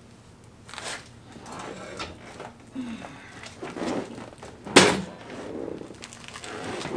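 Scattered knocks and clunks of things being handled, with one loud sharp knock about five seconds in.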